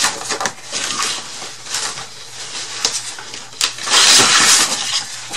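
Sheets of paper rustling and crinkling as they are handled on a craft table, with light taps and clicks, and the loudest rustle about four seconds in.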